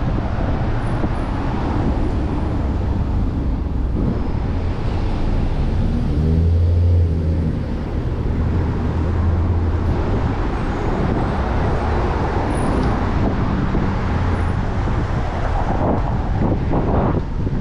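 City road traffic heard from a moving bicycle, with wind rushing over the microphone. A vehicle engine's low drone stands out in the middle, and there are a few short knocks near the end.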